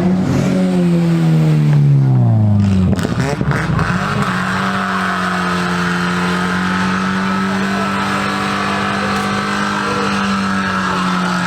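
Car engine revving: the revs fall away over the first few seconds, then are held at one steady high pitch for about seven seconds, as in a burnout.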